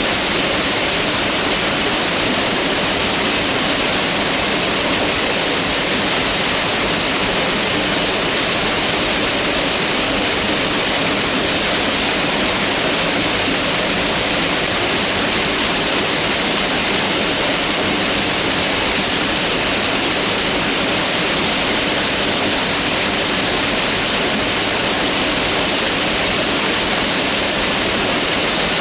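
Mountain river rushing over rocks: a loud, steady, even wash of water noise that does not change.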